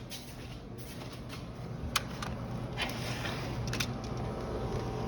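Low, steady hum of a running air-conditioning unit, growing gradually louder, with a few short sharp clicks or knocks.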